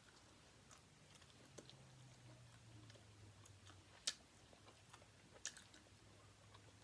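Faint chewing with small mouth clicks. Two sharper crunches come about four and five and a half seconds in, over a low steady hum.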